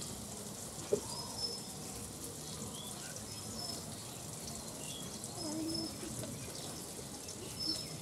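Birds chirping with short, scattered high calls over quiet outdoor background, with a sharp knock about a second in.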